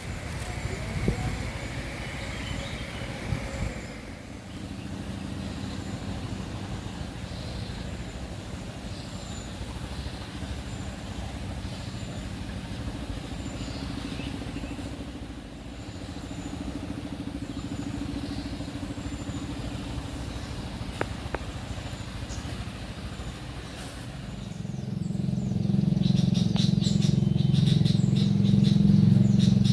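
A motor vehicle engine running steadily, growing much louder about 25 seconds in as it comes closer, with faint bird chirps above it.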